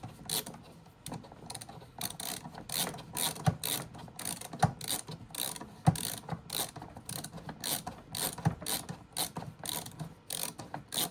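Ratcheting screwdriver clicking steadily, several clicks a second, as a small screw is driven into a 3D-printed plastic part, with a few duller knocks in between.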